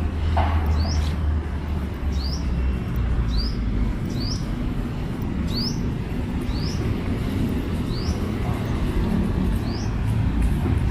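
A bird repeating a short, high, rising call about once a second, over a steady low rumble of city traffic.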